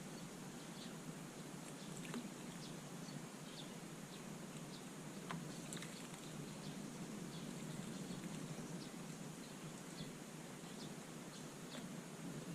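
Small birds giving short, faint, scattered chirps over a steady low background hum.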